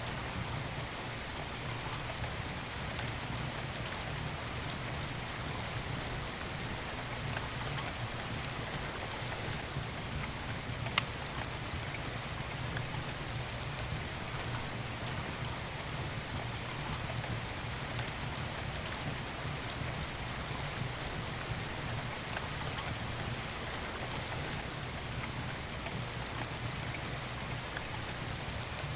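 Steady rain falling, with a low rumble underneath. A single sharp snap, like a log popping in a fireplace, stands out about eleven seconds in.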